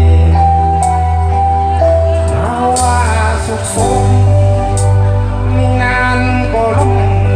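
Amplified live band playing a Thai pop-rock song, with long held melody notes over a heavy bass line, a cymbal hit about every two seconds, and some singing.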